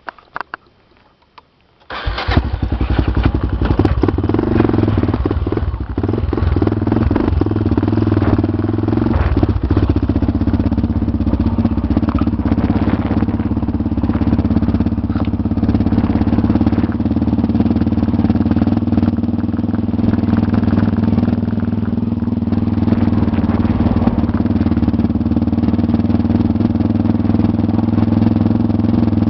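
Motorcycle engine running steadily on a dirt road at a fairly even pitch. Knocks and rattles come through in the first several seconds. It cuts in suddenly about two seconds in, after a quiet stretch.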